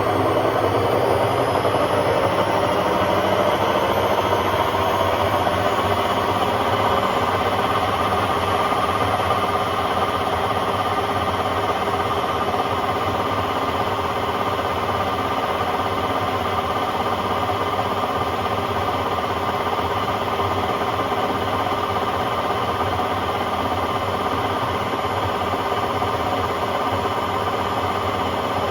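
Hotpoint Aquarius WMA50 washing machine in its spin: the drum motor's whine rises in pitch over the first several seconds as the drum speeds up, then holds a steady high-speed spin. Really loud.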